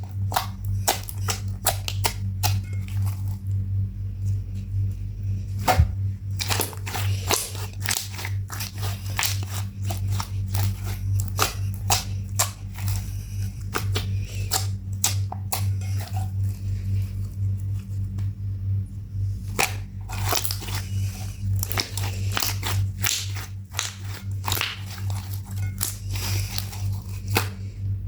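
Glitter slime being squished and kneaded by hand: a dense, irregular run of sticky clicks and pops, over a steady low hum.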